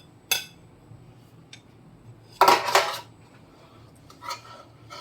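Dishes and cutlery clinking and clattering in a kitchen sink during hand dishwashing: a sharp clink, a louder clatter about halfway through, and a smaller one near the end.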